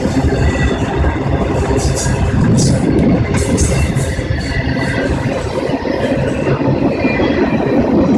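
Railway train running past, a steady heavy rumble with a few sharp clacks from the wheels.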